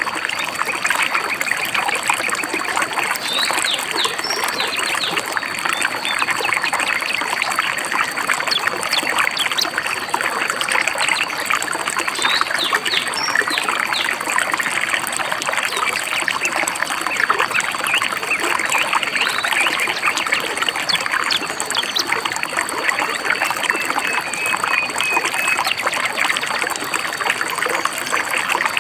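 A shallow stream babbling and trickling over rocks, steady throughout, with a few short high bird chirps now and then and a quick series of repeated bird notes near the end.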